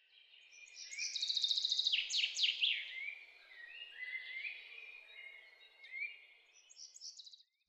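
Songbirds singing: a rapid trill of repeated notes about a second in, then several down-slurred whistles, fading to scattered chirps toward the end, over a faint steady rushing background.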